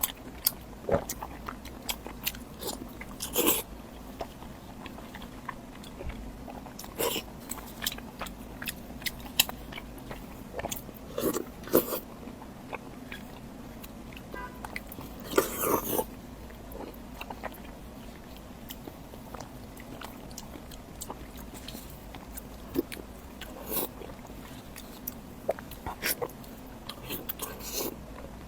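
Close-miked eating: a person biting and chewing food, with many short wet mouth clicks and a few louder bites, the loudest about fifteen seconds in.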